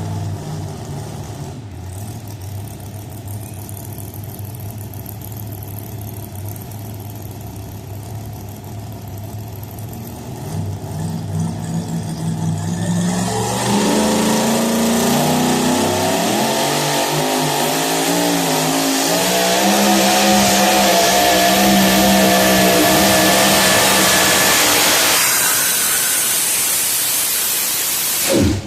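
Two-wheel-drive pulling truck's engine idling low, then revving up about ten seconds in and running at full throttle through its pull, the pitch climbing and wavering. It backs off and drops away near the end.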